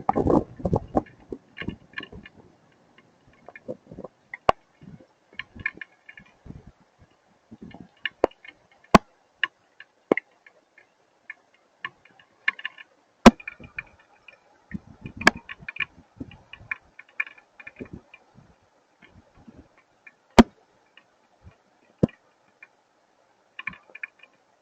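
Hailstones striking hard surfaces one at a time: sharp, irregular clicks and knocks, never more than a few a second, with short higher rattling clusters between them. A loud low rumble of thunder dies away in the first second.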